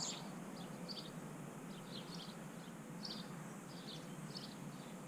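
Small backyard songbirds chirping: many short, high calls, several a second, over a steady low hum.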